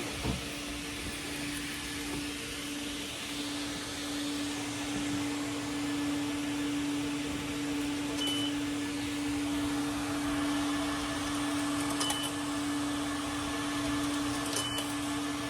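Coin-operated car-wash vacuum running steadily, its hose sucking air with a constant hum and hiss. A short thump comes right at the start, and three brief high beeps sound in the second half.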